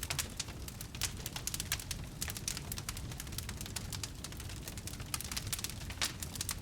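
Wood bonfire burning: quick, irregular crackles and pops of the burning wood over a low, steady rumble of the flames.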